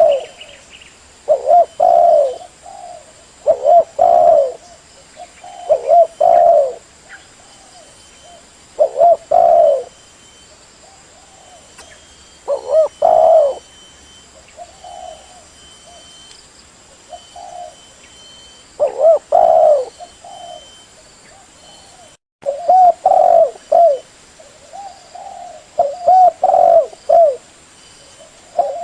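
Spotted dove (tekukur) cooing: short, repeated low coo phrases every two seconds or so, with brief pauses between runs.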